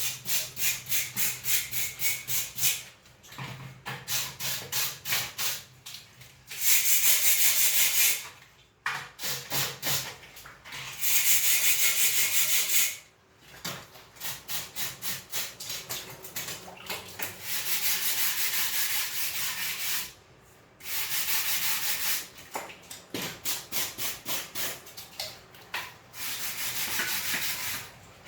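Hand scrubbing strokes on a tractor radiator during cleaning, about three to four a second, broken by several longer steady hissing stretches lasting one to three seconds.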